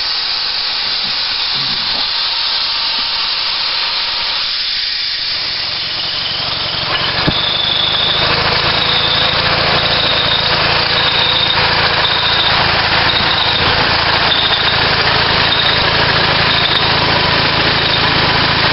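Natural gas hissing as it escapes. About five seconds in, the two-cylinder Kohler natural-gas engine driving a four-cylinder Bauer compressor starts up. It then runs steadily, with a high squeak repeating about once a second.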